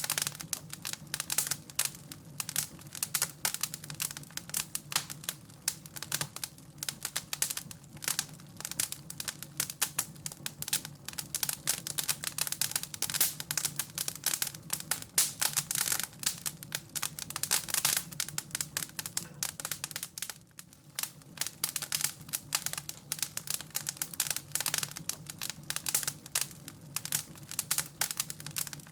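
Wood fire crackling in a fireplace: dense, irregular snaps and pops, several a second, over a faint steady low hum.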